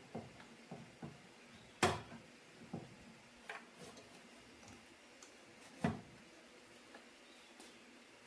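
Light clicks and knocks of hard objects being handled, a scattering of small ones with two louder knocks about two seconds and six seconds in.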